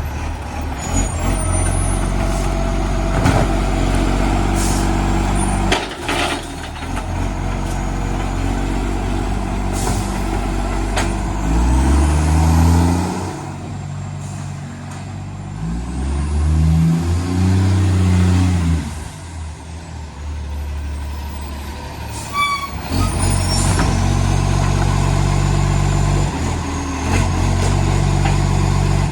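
Side-loader garbage truck's diesel engine running with a large exhaust leak. It holds a steady low run, then revs up and drops back twice, about 12 seconds in and again about 16 to 19 seconds in.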